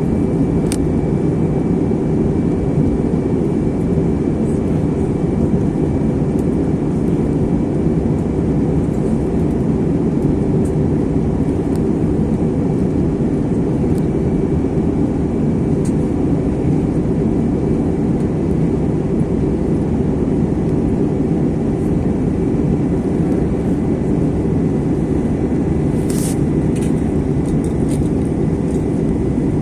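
Steady engine and airflow noise inside the cabin of an Airbus A321 airliner descending to land, with a faint steady high whine over it; a few light clicks or rattles come near the end.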